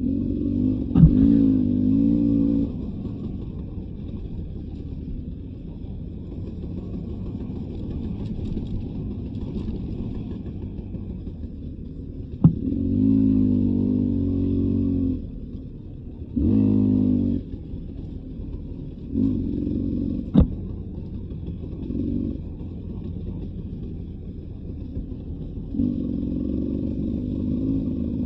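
Beta 300 RR two-stroke dirt bike engine, throttle opened in short bursts of a second or two, about six times, each rising in pitch, with lower running between them. A few sharp knocks and some clatter from the bike over the rough trail.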